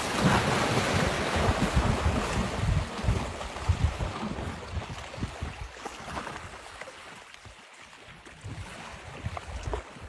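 Wind rumbling on the microphone over a rush of water, easing off after about five seconds.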